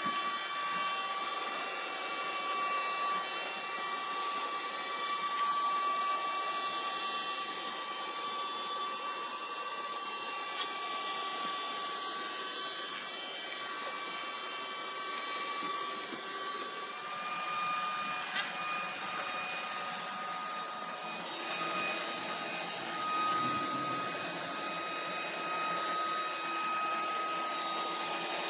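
iRobot Roomba Plus 405 Combo robot vacuum running: a steady motor whine over the hiss of suction, the whine stepping up slightly in pitch about two-thirds of the way through. Two brief clicks, one near the middle and one a little later.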